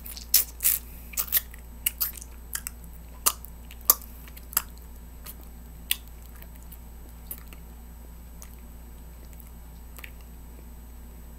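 A person chewing cotton candy close to the microphone, with wet mouth clicks and smacks: a quick run of them over the first few seconds, then only a few scattered ones.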